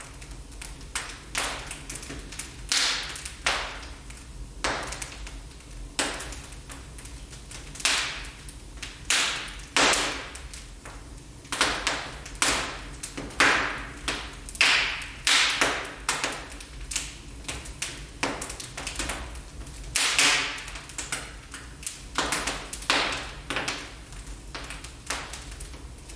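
Wood fire crackling in a fireplace: irregular sharp pops and snaps of burning logs, some louder than others, over a low steady rumble.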